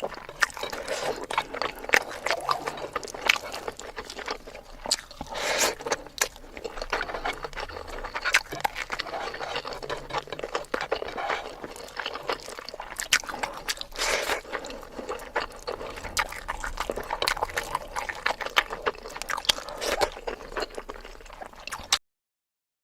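Close-miked eating: a person chewing and smacking, with many quick wet clicks and crunches from the mouth. The sound cuts off suddenly near the end.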